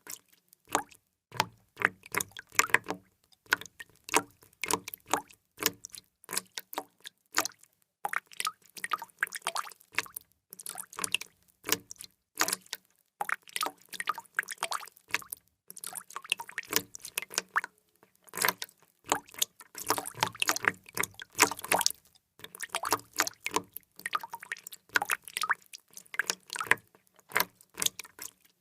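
Water drops dripping and plopping in quick, irregular runs of several drops a second, broken by a few short pauses.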